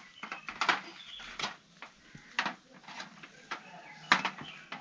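A few separate sharp clicks and knocks, about four over the few seconds, from spice containers and utensils being handled as masala is about to be added to the beef.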